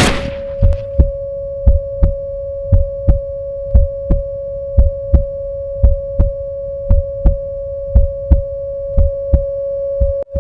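Heartbeat sound effect: paired low thumps, lub-dub, about once a second, over a steady high sine tone.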